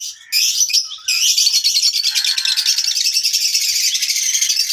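A flock of small cage birds chirping together, many high, rapid calls overlapping in a dense chatter, briefly thinning about a second in.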